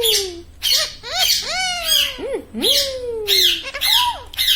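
Pet parrot giving a rapid run of meow-like calls, imitating a cat, each call sliding up and then falling in pitch.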